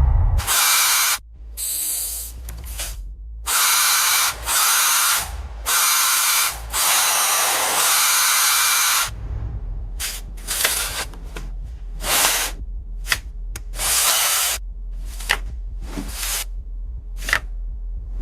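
Repeated bursts of hissing spray in a workshop, longer ones at first, then shorter and quicker after about nine seconds.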